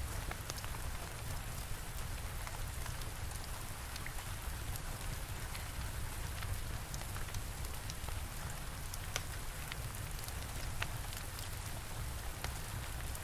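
Steady rain with a crackling fire: an even hiss of rainfall with a low rumble beneath it, broken by scattered sharp crackles and pops at irregular moments.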